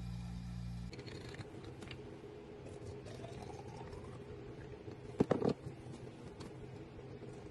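Items being handled, with light clicks and a short rattle of sharp knocks about five seconds in, over a steady low hum.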